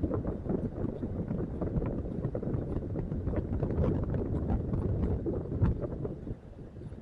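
Wind buffeting the microphone: a dense low rumble with many irregular small knocks, easing off about six seconds in.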